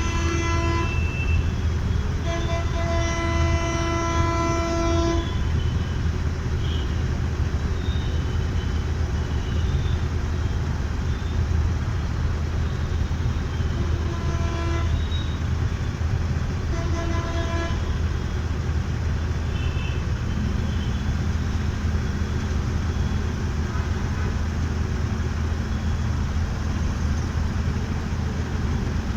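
Road traffic heard from a moving motorbike: a steady low rumble of engine and wind, with vehicle horns honking. One long honk comes at the start and another lasts about three seconds, with two shorter honks about halfway through.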